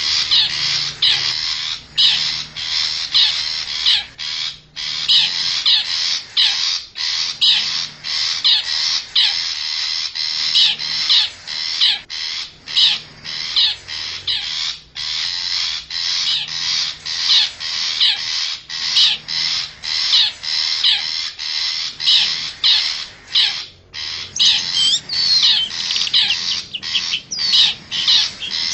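Long-tailed shrike (cendet) lure-call recording: a fast, unbroken run of short, harsh call notes, about two a second, with a few slurred whistled notes near the end.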